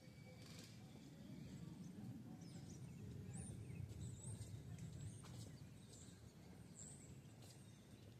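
Faint outdoor ambience: a steady low rumble, with small birds chirping several times in high, short calls.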